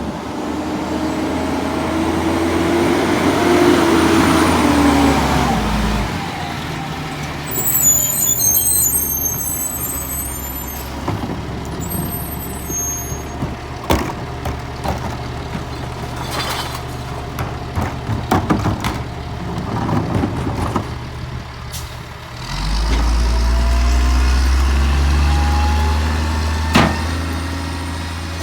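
Peterbilt garbage truck's diesel engine pulling away, its pitch rising, followed by a high air-brake hiss and squeal and a run of knocks and clanks. Near the end the engine pulls away again, rising in pitch.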